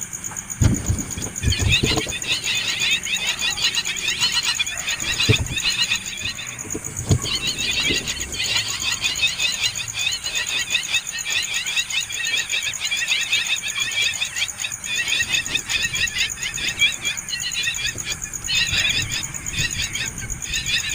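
Several hungry nestling birds begging for food, a dense stream of rapid high-pitched chirps. A few dull knocks sound in the first seven seconds.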